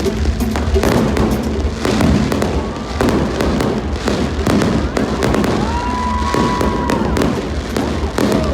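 Display fireworks going off in rapid succession, many sharp bangs and crackles overlapping, over a steady musical soundtrack with a continuous low bass. About six seconds in, a whistling tone holds for a little over a second.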